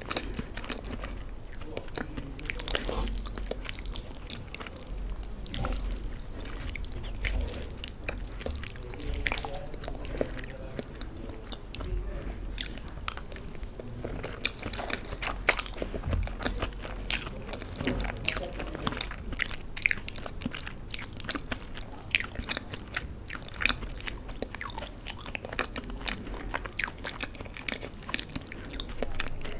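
Close-miked chewing and wet mouth sounds of someone eating macaroni pasta and Maggi noodles, a steady run of small sharp clicks and smacks.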